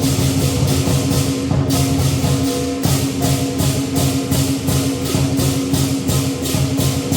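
Lion dance music: cymbals clashing at about three strokes a second over steady drumming, with a sustained ringing tone underneath.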